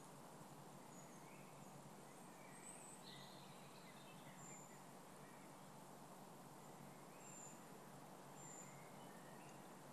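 Near silence: a steady faint hiss with faint bird calls, short high chirps every second or so.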